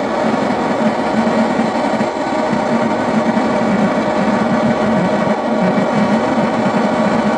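A small electric motor tool running steadily, most likely being used to clear a clogged refrigerator defrost drain.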